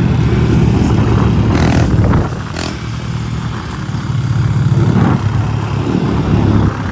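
Small single-cylinder four-stroke pit bike engine (Honda CRF110F), freshly rebuilt top end, revving as the bike is ridden off. It is loudest for the first two seconds, drops off, then picks up again about five seconds in.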